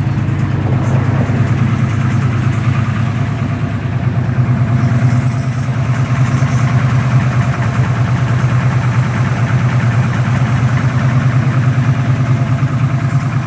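Car engine idling steadily with a fast, even pulse, most likely the 1987 Chevrolet Monte Carlo SS Aerocoupe's engine.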